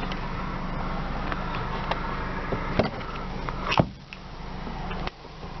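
Steady low hum of the 2008 Honda Accord idling, with a few sharp clicks and knocks, the loudest about two-thirds of the way through.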